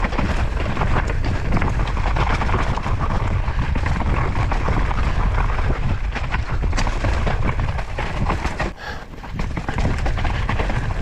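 Devinci Chainsaw downhill mountain bike ridden fast down a dirt trail: heavy wind rumble on the microphone over tyre noise and a constant rattle of knocks and clicks from the chain and suspension. The noise drops briefly about nine seconds in, then picks up again.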